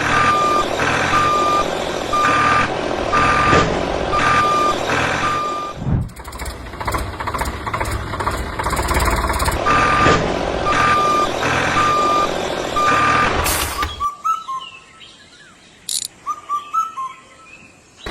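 Truck reversing alarm beeping in an even on-off rhythm, about one beep every three-quarters of a second, over a running engine; it stops, then starts again for a few more beeps. Near the end the sound drops away, leaving a few short chirps.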